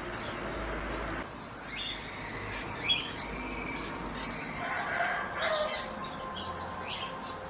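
Birds chirping, with a few short separate calls, the busiest about five seconds in.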